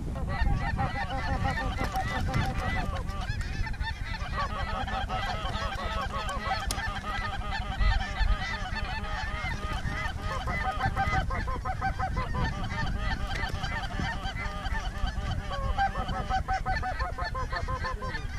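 A large flock of snow geese calling: many short, overlapping honks.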